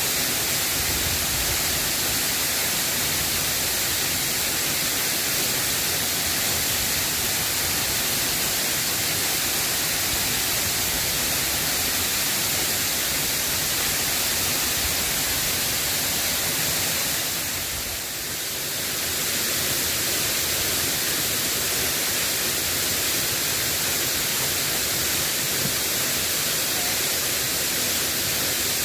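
Steady hiss of rain falling, with no pattern of separate drops. It dips briefly about two-thirds of the way through.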